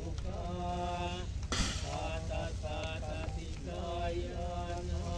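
Chanting in long, steady held tones broken by short pauses, typical of Buddhist Pali chant. A brief hiss cuts through about a second and a half in.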